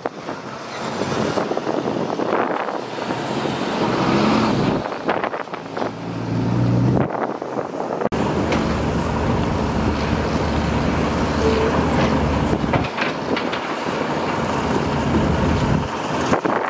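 Diesel engine of a heavy earthmoving machine running under load. It swells in the first half, breaks off sharply about eight seconds in, then runs steadily.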